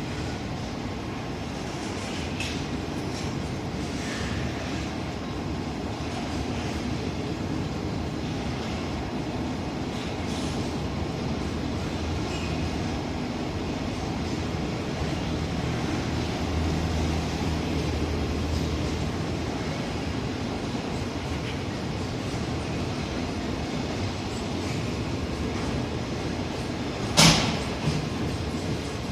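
Freight train rolling past: a steady rumble of wagon wheels on the rails, a low hum for several seconds midway, and one sharp bang about two seconds before the end.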